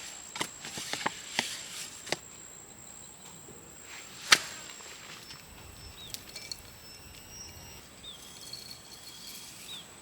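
A run of quick chopping knocks, then one loud sharp chop about four seconds in. Faint chirping calls sound in the second half over a steady high insect whine.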